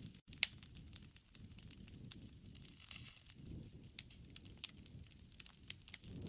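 Wood campfire crackling: irregular sharp pops and snaps over a low, swelling rumble of the flames, the sharpest pop about half a second in.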